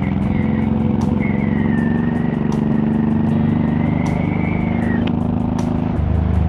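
Honda VTX1800's big V-twin engine running steadily under way, its revs dipping briefly about six seconds in. A thin wavering whistle rides over it until about five seconds in.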